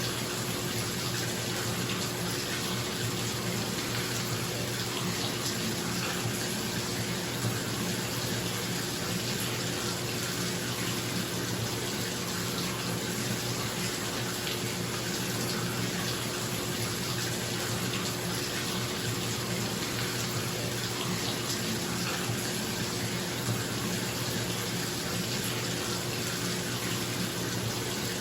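Bathtub tap running, water pouring steadily into the tub, with a bathroom exhaust fan humming steadily underneath.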